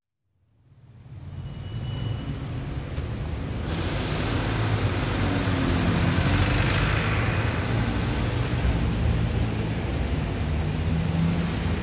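Steady road-traffic rumble and hiss fading in from silence, with a low hum underneath and a sudden rise in the hiss about four seconds in.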